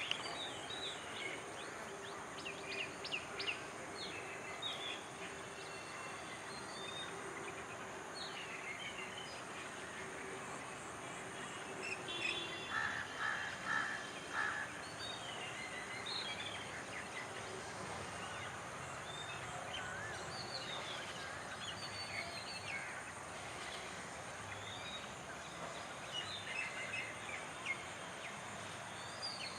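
Outdoor ambience with many small birds chirping in short, quick calls over a steady background hiss, with a denser run of repeated notes partway through.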